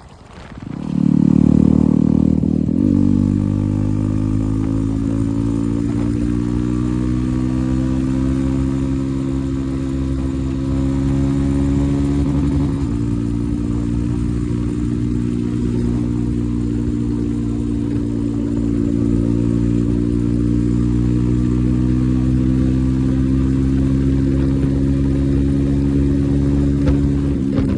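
Yezdi Roadster motorcycle's single-cylinder engine running through an aftermarket Akrapovic exhaust: the note swells up about a second in, then holds steady with its pitch slowly creeping upward, broken briefly about 13 seconds in.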